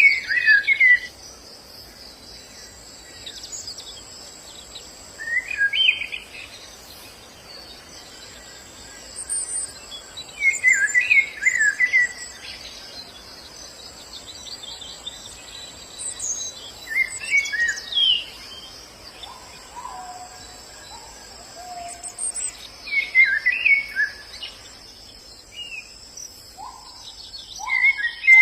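White-eye (pleci) singing short, quick twittering phrases of about a second each, repeated every five to six seconds. A steady high-pitched insect drone runs underneath, and a few lower whistled notes come in past the middle.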